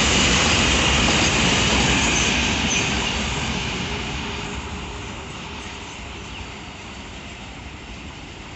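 Wheels of a long container freight train rolling past at speed: a loud, dense rattling rush that fades from about three seconds in as the last wagon passes and the train draws away.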